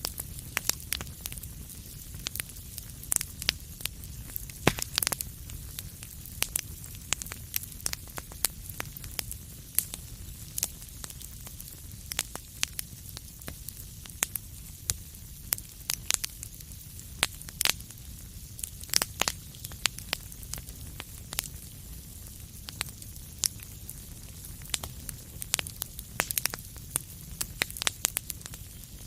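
Fireplace fire crackling, with frequent irregular sharp pops and snaps over a low steady rumble.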